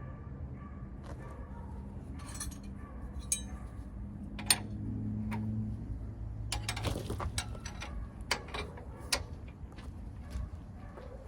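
Metal tools and parts clinking and knocking irregularly, with a sharp clink about four and a half seconds in and a busier run of clinks in the middle, over a low steady hum.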